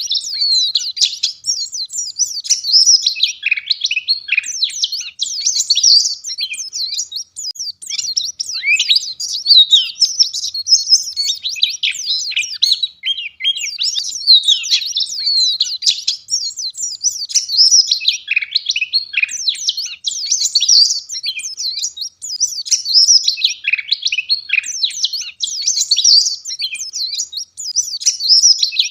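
White-eye (pleci) singing a fast, continuous high-pitched twittering song, its short notes packed closely together with hardly a break.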